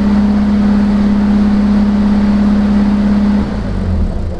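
1982 Datsun 210's four-cylinder engine running steadily, then switched off about three and a half seconds in, its note dropping as it winds down.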